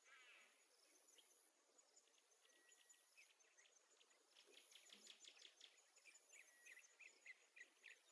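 Near silence with faint, high-pitched chirping in quick runs of several chirps a second, plus a few short whistled notes.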